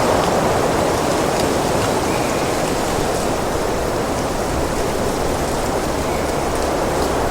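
Wind blowing steadily, an even rushing noise that eases slightly over the first couple of seconds.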